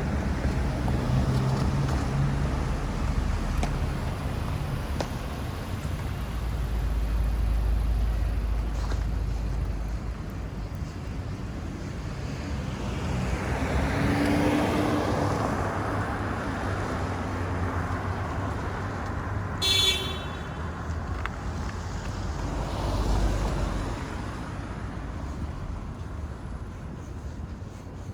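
City street traffic: a steady low rumble with cars passing by, one swelling and fading about halfway through and another a few seconds later. Just before the second car there is one short, high beep.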